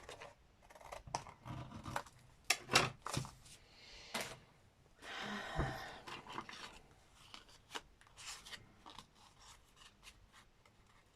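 Scissors snipping through thick card in short, irregular cuts, with paper rustling and sliding between them.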